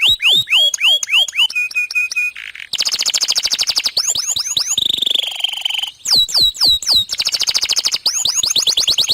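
Domestic canary singing continuously: a fast song of phrases made of rapidly repeated downward-sweeping whistled notes, a short quick run of notes on one steady pitch, and a buzzy rolling phrase about halfway through, with barely a pause between phrases.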